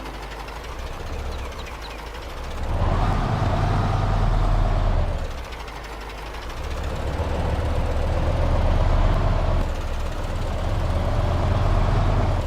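Radio-controlled model construction machine working: a low engine-like drone with a motor whine that rises and falls, swelling up three times as it is driven.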